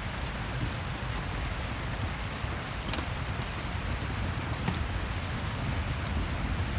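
Steady rain falling, mixed with a wood fire crackling; a few sharper crackles stand out, clearest about three seconds in and again near five seconds.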